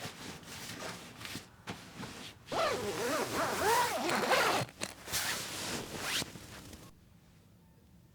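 Fabric being handled, rustling and scraping, with a louder squeaky sliding stretch in the middle; it stops about seven seconds in.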